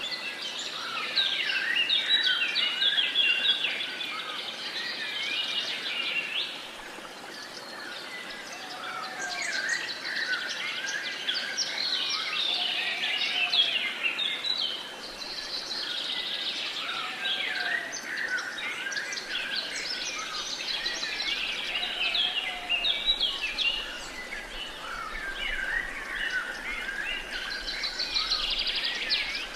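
A chorus of wild birds singing, with many overlapping quick chirps and trills. A lower, softer whistle recurs every few seconds under a light steady background hiss.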